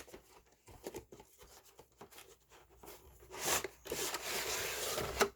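Handling of a trading-card collection box's packaging: light rustles and clicks, then a louder rustle and a sustained scraping slide lasting over a second near the end, like a cardboard or plastic tray being pulled out.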